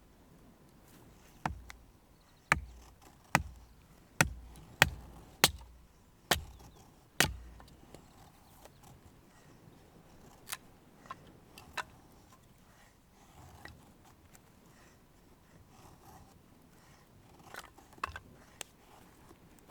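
Tent pegs being driven into the ground with a hammer: eight sharp strikes about one a second, then a few lighter clicks and knocks.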